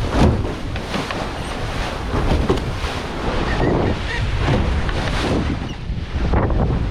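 Wind buffeting the microphone over the rush and slap of waves along a sailboat's hull as it sails close-hauled, with irregular surges.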